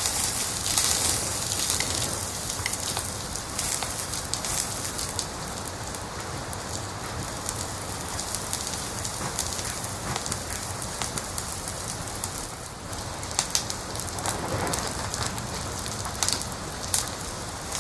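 Wood fire crackling: a steady hiss of burning with frequent sharp pops and snaps, a few louder ones in the second half.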